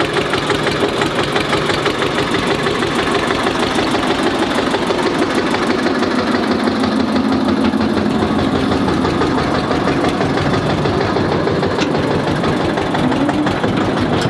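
Diesel tractor engine idling steadily with a fast, even firing rhythm.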